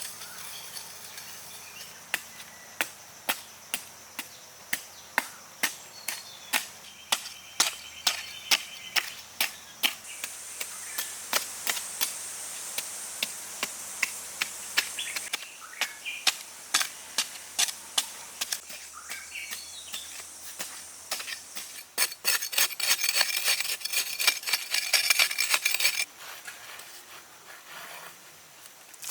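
A hand tool striking repeatedly, about two sharp blows a second, breaking into a fast flurry of strikes a few seconds before the end, over a steady background of jungle insects and birds.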